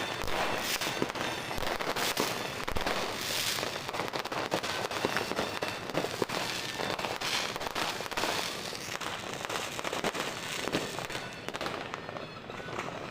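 Many fireworks and firecrackers going off together: a dense, unbroken run of rapid pops and bangs, with some stronger bangs standing out.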